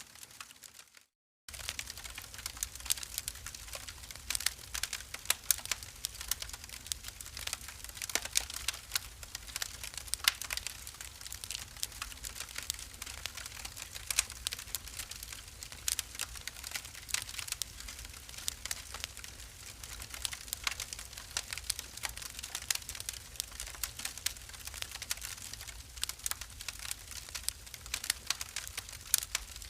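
Wood fire crackling in a fireplace, with a dense run of sharp snaps and pops. The sound cuts to dead silence for about half a second near the start. When it returns, a steady low rumble runs under the crackle.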